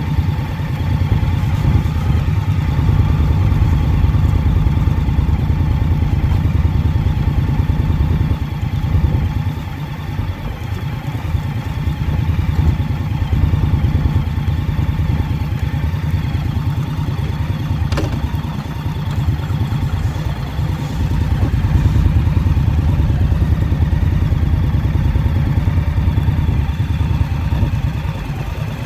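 Motorcycle V-twin engine running with a steady low throb, dipping slightly in level twice in the middle. A single sharp click about eighteen seconds in.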